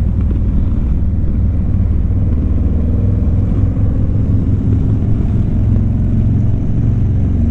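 Harley-Davidson V-twin motorcycle running steadily on the road: a continuous low engine drone under an even rush of road and wind noise.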